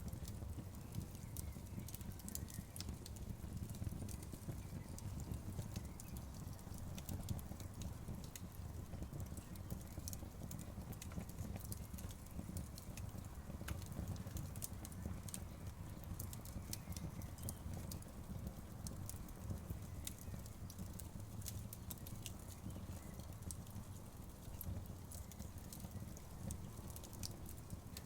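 Wood fire burning: a steady low rumble from the flames with frequent, irregular sharp crackles and pops from the burning wood.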